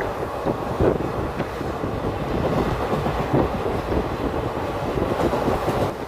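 Passenger train running along the track, heard from on board: a steady rumble of the coach with a continuous clatter and rattle of wheels over the rails.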